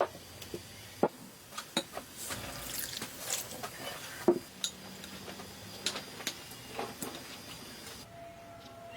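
Kitchenware being handled: irregular clinks and knocks of utensils against dishes and pots, the loudest about four seconds in.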